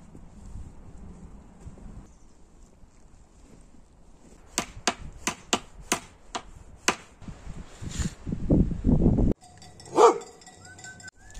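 A run of about eight sharp knocks, then a low rumbling noise that cuts off suddenly, and after it a single short call.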